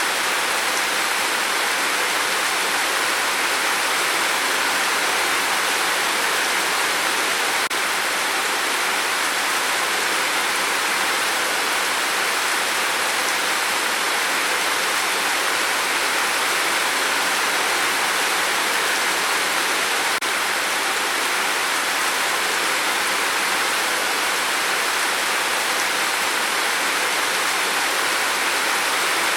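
Steady rain on a tin roof, an even hiss without separate drops standing out.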